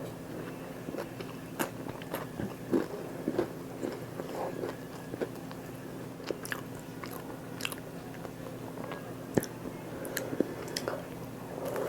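Close-miked eating: a person biting and chewing food, with irregular sharp crunches and mouth clicks, the sharpest about nine and a half seconds in.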